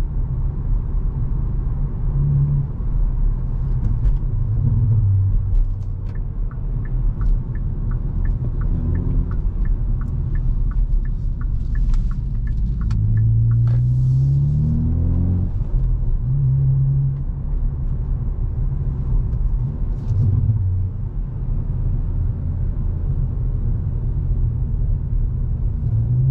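Hyundai i20 N's 1.6-litre turbocharged four-cylinder engine and exhaust under way with a steady low drone, the revs climbing under acceleration about halfway through. A regular light ticking runs for several seconds before the acceleration.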